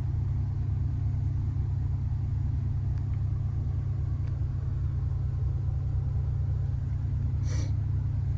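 A steady low rumble, with a brief rustle near the end.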